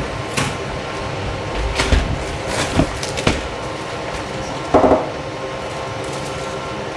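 Footsteps on a concrete hallway floor and several light knocks and clatters as grocery bags are carried to a door and set down, with a louder bump about five seconds in. A faint steady hum lies underneath.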